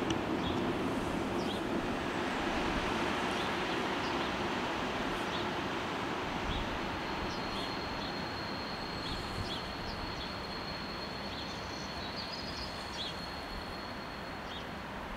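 A passing train's rolling noise slowly fading away, with a low hum that dies out in the first few seconds. From about halfway a thin, steady high tone sounds, and birds chirp here and there.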